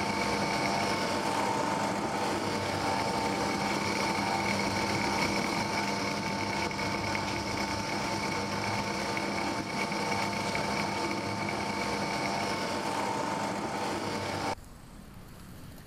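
Dough-kneading machine running with a steady mechanical whine and hum. It cuts off suddenly near the end, giving way to faint outdoor background.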